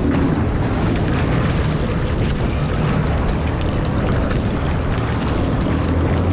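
Jet ski engine running steadily at low speed, a constant low rumble with wind noise on the microphone.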